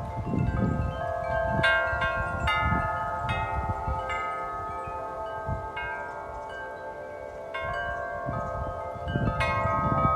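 Wind chimes ringing in gusty wind, struck again and again so their tones overlap and linger. Low wind rumble on the microphone is heaviest at the start and again near the end.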